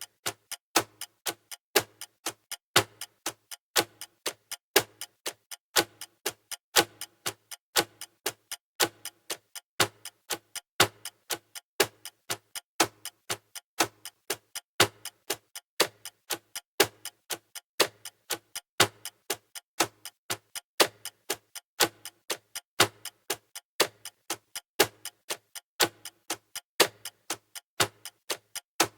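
Steady clock ticking of a countdown timer, evenly spaced sharp clicks at about two a second.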